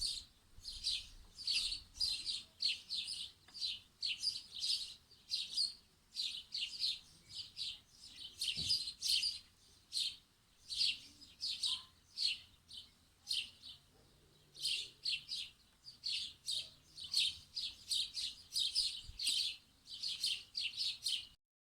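Small birds chirping: quick runs of short, high chirps with brief pauses between the runs, cutting off suddenly near the end.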